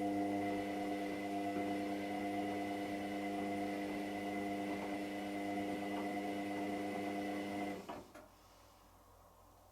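Hotpoint WMXTF742K washing machine humming steadily while running, then cutting off abruptly about eight seconds in, followed by quiet.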